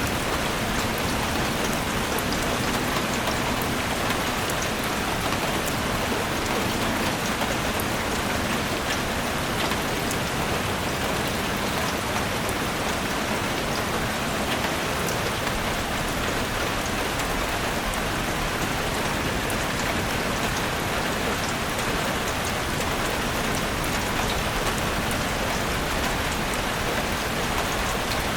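Steady rain falling in a forest, an even hiss with many small drop impacts on leaves and ground.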